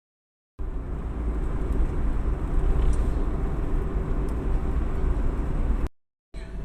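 Steady low rumble with a hiss over it, the travel noise of a moving vehicle. It cuts to silence for a moment near the end before resuming.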